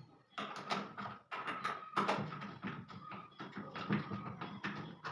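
Rapid clicking and knocking of hand tools on metal as the front counterweights on a Samsung front-load washer's tub are bolted on and tightened, several clicks a second.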